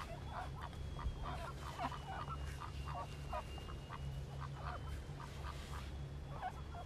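Ducks quacking, many short calls in quick succession, with a faint steady high tone behind them.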